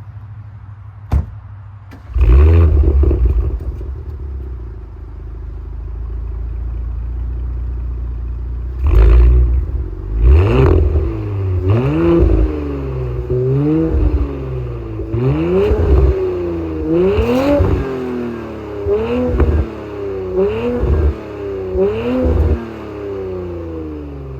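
Audi S5 engine through a Milltek non-resonated exhaust. It starts about two seconds in with a loud flare, settles to a steady idle, then is revved repeatedly from about halfway: about a dozen short blips, each rising and falling back, before it returns to idle near the end.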